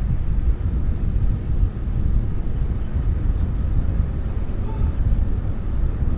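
Wind buffeting a helmet-mounted action camera on a moving bicycle, a steady low rumble, with a thin, high, steady squeal from the bike's squeaky brakes for about the first two seconds.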